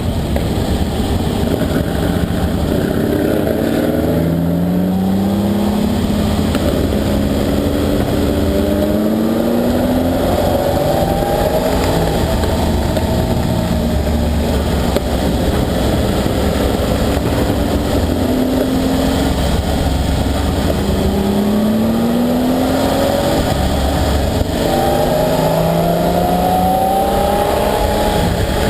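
Ferrari 375 MM's V12 engine running hard, its pitch climbing and dropping back again and again as the car accelerates up through the gears.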